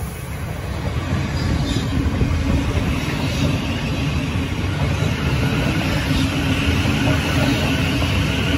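Thameslink Class 700 electric multiple unit running along the platform: a steady rumble of wheels on rail that builds over the first couple of seconds, then holds as the carriages pass.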